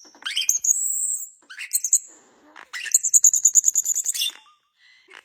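Bird chirping: a series of high-pitched calls that sweep in pitch, then a fast trill lasting about a second, starting about three seconds in.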